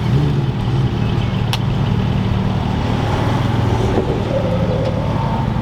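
Car engine idling close by, a steady low note that holds one pitch without revving.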